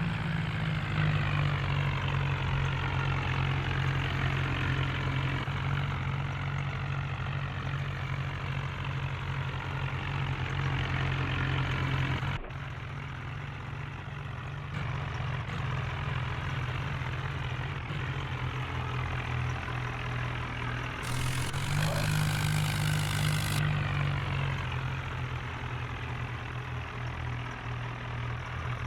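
Diesel engine of a Swaraj 963 FE tractor running steadily. It drops abruptly in level about twelve seconds in and grows louder again around twenty-two seconds.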